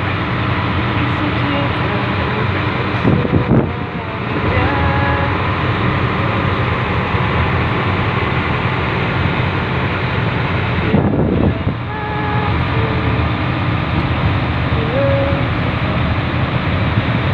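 Locomotive of an industrial train running steadily under way: a continuous engine drone with low, even tones under the rolling noise. It briefly changes texture twice, about three and a half seconds in and again around eleven seconds.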